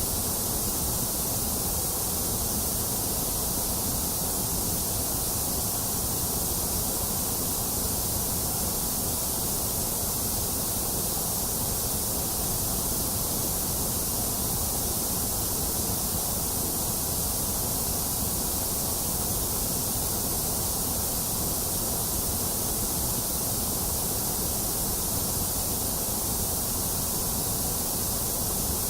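Steady white noise for soothing a baby: an even, unbroken hiss that never changes in level or character, strongest in the high end, with a softer low rumble beneath.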